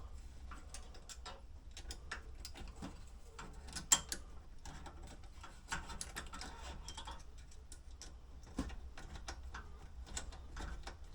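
Irregular light clicks and taps of small parts being handled and fitted by hand, with two sharper knocks about four seconds in and near the end, over a faint steady low hum.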